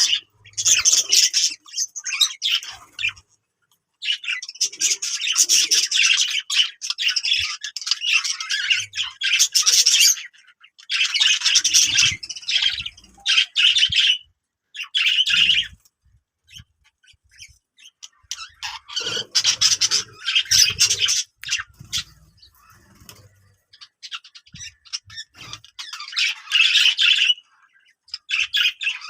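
Budgerigars chattering and squawking in bouts of a second or three, separated by short pauses.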